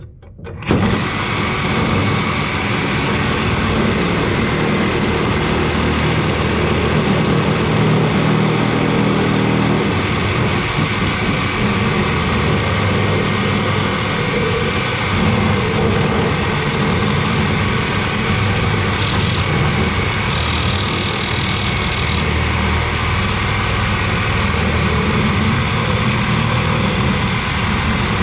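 A motor running steadily, starting abruptly about a second in.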